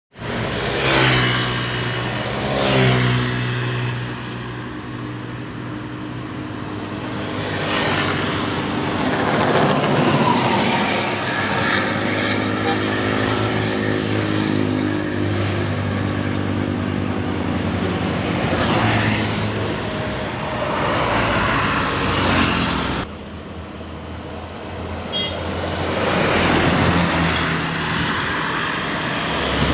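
Diesel bus engine running through a loud aftermarket exhaust, its note rising and falling several times as it revs. About two-thirds through, the sound drops abruptly to a quieter engine hum, then builds again.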